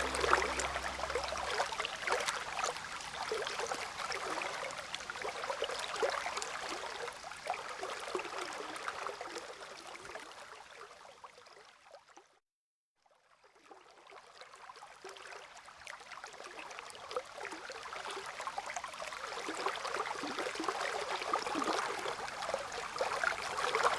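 Steady water sound, a crackling, splashing hiss like a stream or rain. It fades out to silence about halfway through, then fades back in. The tail of low piano-like music is heard at the very start.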